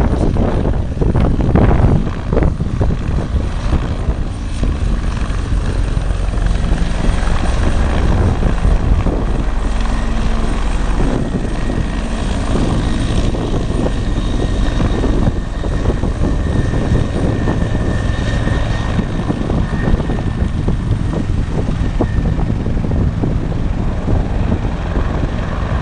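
Aircraft engine noise running loud and steady and close by, with a faint high whine through the middle.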